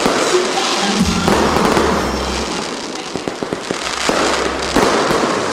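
Fireworks crackling and popping in rapid, dense succession, with louder clusters near the start and again near the end.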